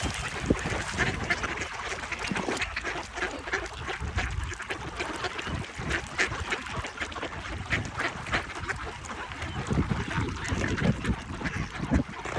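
A flock of wintering swans and ducks calling on the water: many short, overlapping quacks and honks, one after another.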